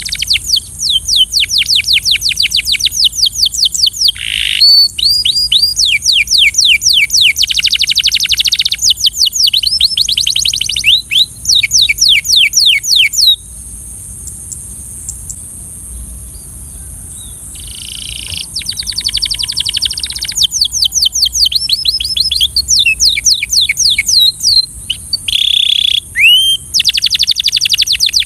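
Belgian canary singing in fast trilled phrases of quick, falling notes, several phrases in a row, going quiet for about four seconds midway before starting up again.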